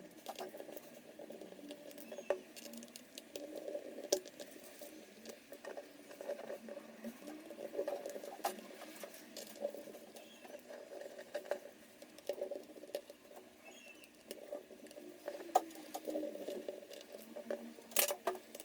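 Small screwdriver unscrewing the tiny T5 Torx and Phillips screws from a laptop's bottom cover: faint irregular scraping and rattling, with occasional sharp clicks as the bit seats or a screw comes free.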